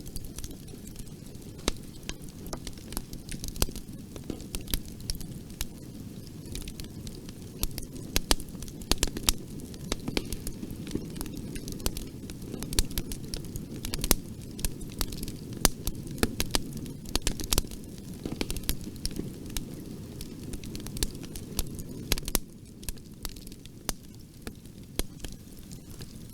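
Bonfire burning, a steady low rumble of flames with frequent sharp, irregular crackles and pops from the wood.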